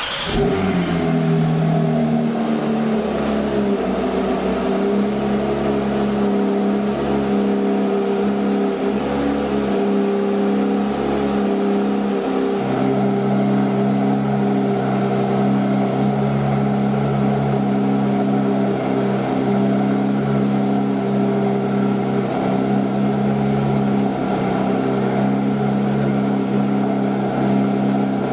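Porsche 992 GT3's 4.0-litre flat-six cold-starting through the stock exhaust with its valves closed: it catches with a brief flare that settles within a second or two, then runs at a steady idle.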